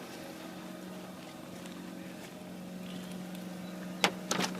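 The rotary engine of a 2004 Mazda RX-8 idling steadily as it warms up after a cold start. A few sharp clicks come near the end.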